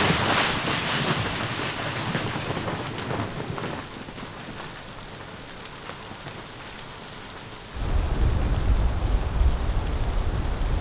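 Storm noise: a steady hiss of falling precipitation, with a deep rumble coming in about eight seconds in and lasting about four seconds.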